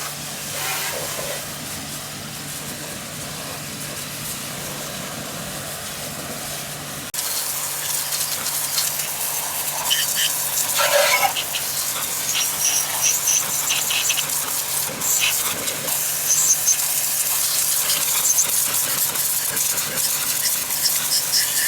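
A steady low mechanical hum, then, from about seven seconds in, a loud continuous hiss like spraying air or steam.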